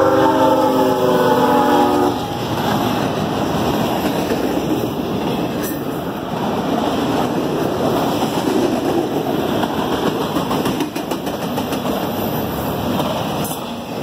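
Freight locomotive's air horn sounding a steady chord as it passes, cutting off about two seconds in. Then the steady rumble and rattle of autorack freight cars rolling past on the rails.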